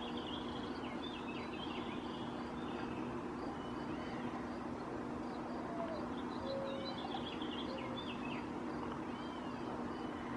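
Songbirds singing at dusk: two bursts of quick, twittering, sliding phrases with scattered single whistled notes between them, over a steady low hum.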